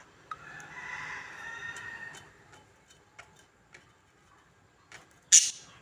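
Budgerigars calling: a warbling chatter for about two seconds, then scattered light clicks and one loud, sharp chirp near the end.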